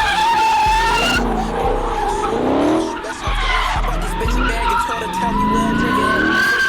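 Dodge Hellcat Redeye being drifted: its tyres squeal in long steady screeches while the supercharged V8's revs rise and fall. Music with a deep bass beat plays underneath.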